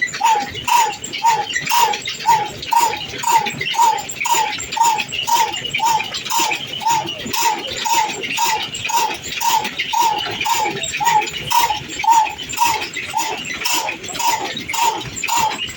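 Old diesel engine running steadily at slow speed: an even beat of sharp knocks, about two and a half a second, each with a short ringing note.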